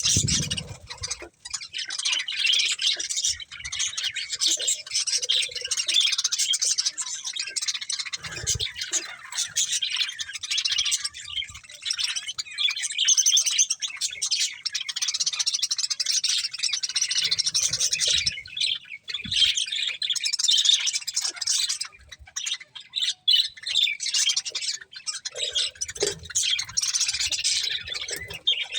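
A flock of budgerigars chattering and chirping continuously, a dense high warble, with a few soft knocks among it.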